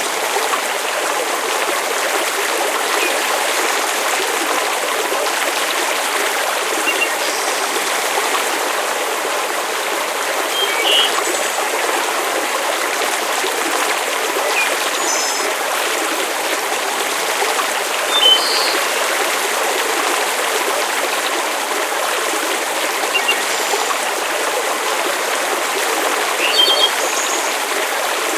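Steady rushing water ambience, an even hiss like a flowing stream or steady rain, with short high chirps a few times.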